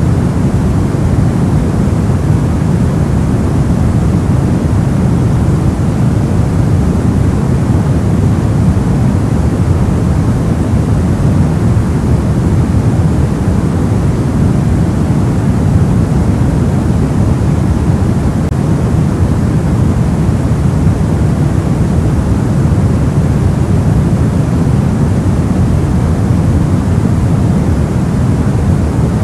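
Steady soft noise for sleep, deep rather than hissy, with most of its weight low and little treble. It is even and unchanging throughout.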